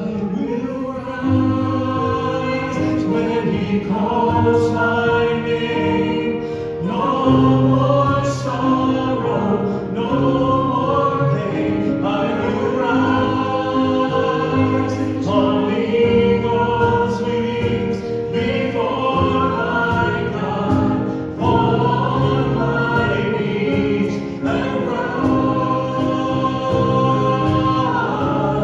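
Worship music: voices singing a hymn together with instrumental accompaniment, in sustained phrases.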